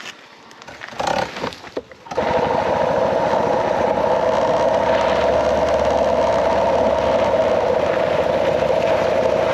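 A Suzuki DR650's single-cylinder engine running steadily as the motorcycle is ridden. A few brief, quieter sounds come first, then the steady riding noise cuts in abruptly about two seconds in.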